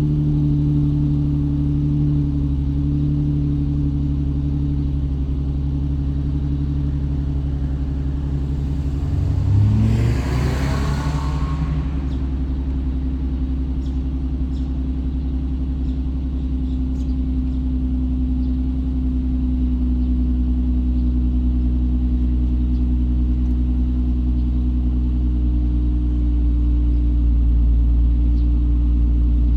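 Infiniti G35 (V36) 3.5-litre V6 with a custom 2.5-inch exhaust idling after a cold start. About ten seconds in there is one short throttle blip, with the pitch rising and then dropping back to a steady idle.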